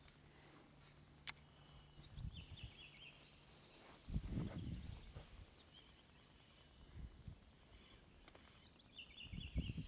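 A songbird singing a short chirping trill twice, once about two seconds in and again near the end, over quiet open-air background. A single sharp click about a second in, and low rumbling bumps at around four seconds and near the end.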